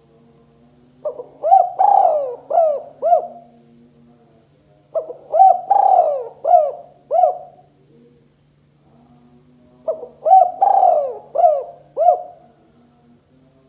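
Spotted dove (tekukur) cooing: three phrases about four seconds apart, each a run of five or so coos.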